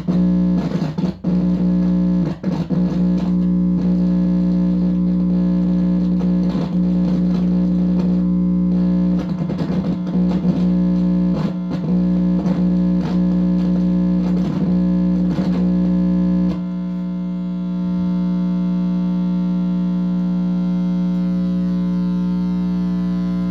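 Loud, steady electrical buzz through a distorted guitar amplifier, with irregular crackles and pops over it; the crackling stops about two-thirds of the way through and the buzz goes on alone. The owner takes the noise for electromagnetic interference from a directed-energy attack.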